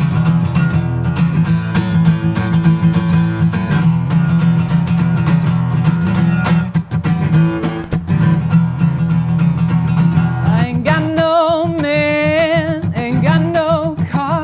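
Acoustic guitar strummed and picked in a blues instrumental break. About ten seconds in, a held, wavering melody line comes in over the guitar.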